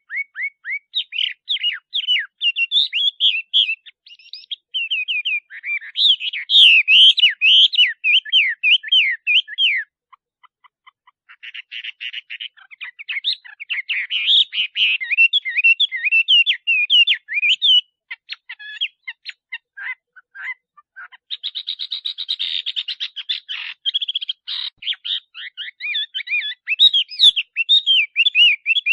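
Male Chinese hwamei singing a long, loud, varied song of rapid whistled phrases, with a brief pause about ten seconds in and passages of fast repeated trill-like notes.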